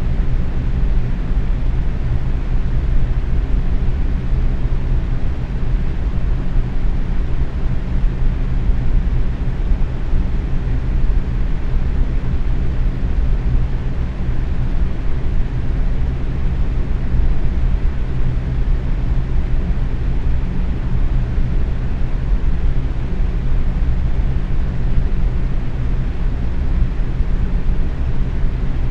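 Box fan running steadily at medium speed: a constant whooshing rush of moving air with a low hum.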